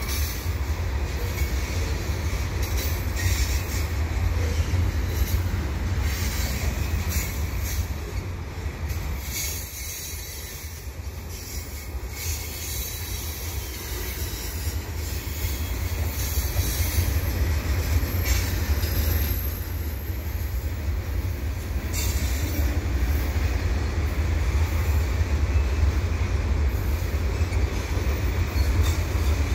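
Freight train cars rolling slowly over the rails: a steady low rumble of wheels on track with wheel squeal, easing a little about a third of the way in and then building again.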